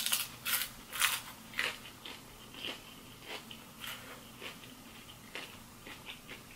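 Crunchy chewing of fried, battered food: loud crunches about twice a second at first, growing fainter and sparser after about two seconds.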